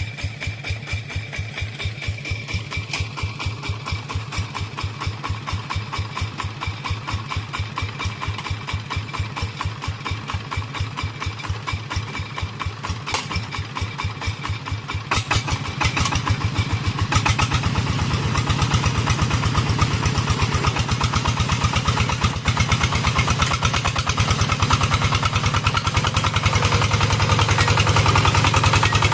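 Single-cylinder diesel engine of a công nông (Vietnamese two-wheel-tractor truck) running with a rapid, even beat. It grows louder about halfway through and stays loud.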